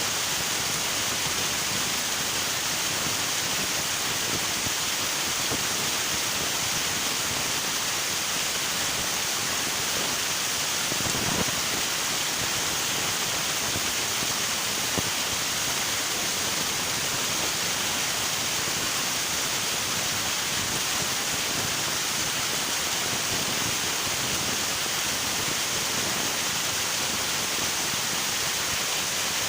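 River water rushing steadily, a constant even flow with no break.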